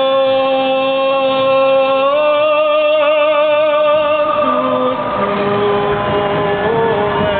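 A gondolier singing unaccompanied, holding long notes with a wide vibrato; the pitch steps up about two seconds in. From about five seconds in, a noisy background lies under the voice.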